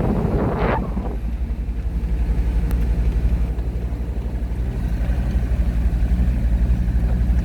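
Car driving slowly, a steady low engine and road rumble, with a short louder sound just under a second in.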